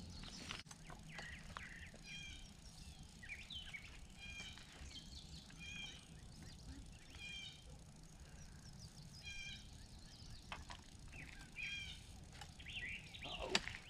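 Songbirds singing faintly by a lake. One bird repeats a short high phrase every second or two, others add scattered chirps, and there is a single sharp click near the end.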